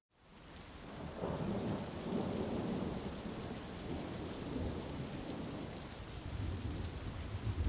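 Heavy rain falling steadily, with low rolling thunder rumbling through it. The thunder swells about a second in and again near the end. The sound fades in from silence at the very start.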